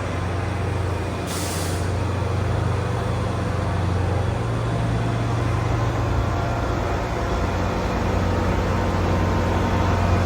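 A large vehicle's engine idling with a steady low hum, and a short hiss of released air about a second in.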